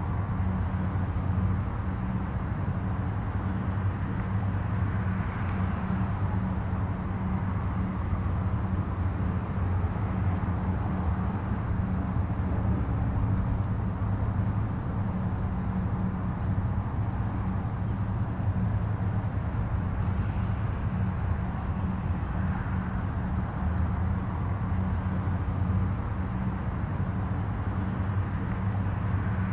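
Distant highway traffic: a steady low rumble of tyres and engines, swelling gently now and then as vehicles pass.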